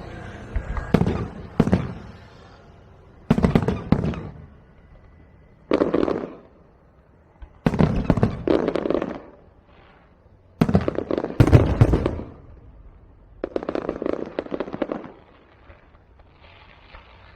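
Fireworks going off in a series of about seven bursts a second or two apart, each a sharp bang trailing into crackling.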